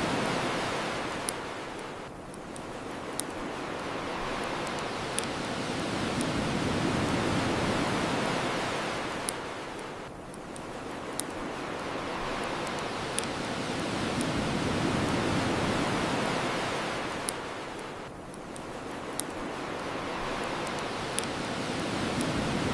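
Ocean surf washing on a shore, swelling and ebbing about every eight seconds, with single sharp crackles from a bonfire every couple of seconds.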